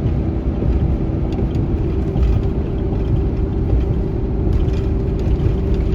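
2016 Dodge Ram 5500 car-hauler truck driving at a steady speed: a constant engine drone over a heavy, even road rumble.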